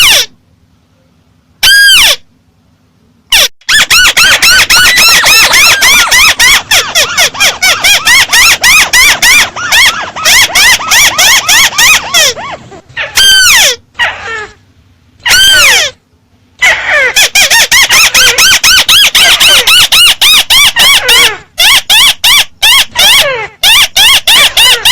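Loud, volume-boosted recording of the 'mắt xéo' bird's call: long runs of rapid chattering high notes, each rising and falling, broken by short pauses and a few single drawn-out calls.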